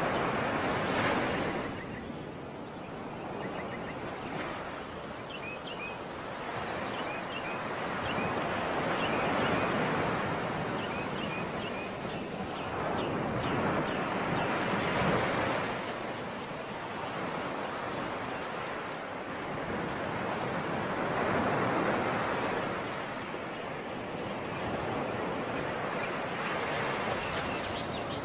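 Sea surf breaking and washing ashore, the rush of water swelling and easing about every five or six seconds.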